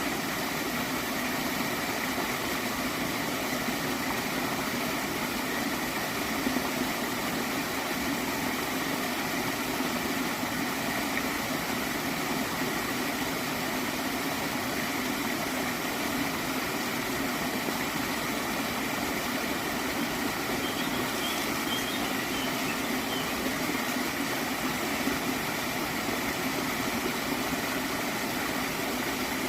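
Gentle water stream flowing and gurgling steadily.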